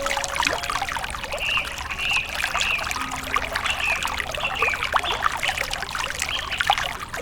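Water trickling and burbling steadily, a dense patter of small splashes.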